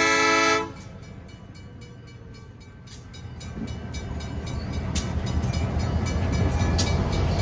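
Diesel locomotive's air horn sounding a chord of several tones, cutting off abruptly under a second in. The locomotive's low engine rumble then grows steadily louder as it approaches, with a few sharp clicks near the end.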